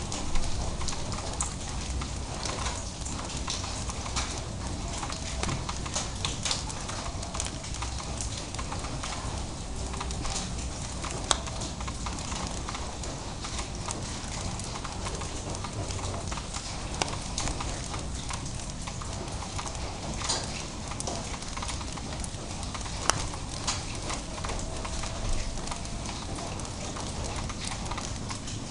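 Light drizzle falling, with irregular drips tapping sharply on a hard surface over a steady hiss of rain.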